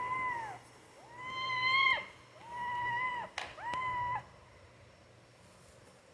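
Kitten meowing four times in quick succession, each a high-pitched, arched call lasting up to about a second, with a short sharp click just before the last one.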